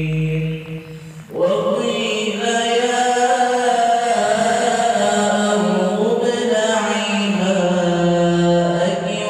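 Chanted vocal music: a voice singing long held notes that slide slowly, with a brief drop about a second in before the chant resumes.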